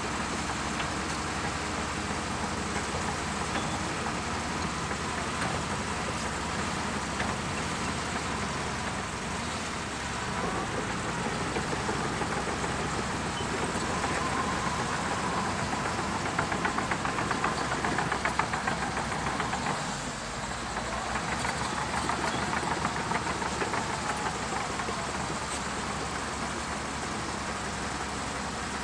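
Shantui DH17C2 crawler bulldozer's diesel engine running steadily. Past the middle it grows louder with a fast clatter for a few seconds, then dips briefly before settling back.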